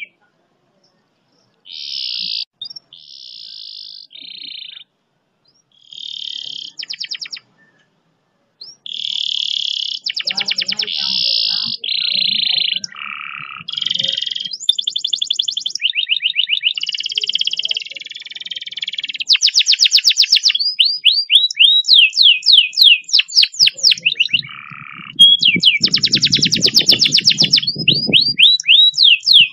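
Domestic canary singing in separate phrases of fast repeated notes and long rapid trills (rolls), with short gaps early on and almost unbroken trilling in the second half.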